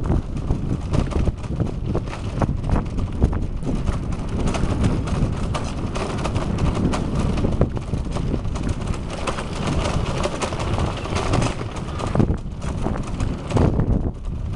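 Wind buffeting the microphone on a moving bicycle, with the bike rattling and clicking as it rolls over an uneven road.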